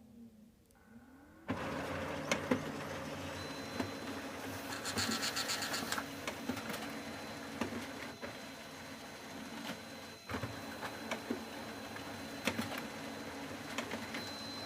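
Brother HL-2380DW laser printer starting up about a second and a half in and running, its motor and rollers going steadily under a thin high whine. Irregular sharp knocks come through the run: the printer's knocking fault.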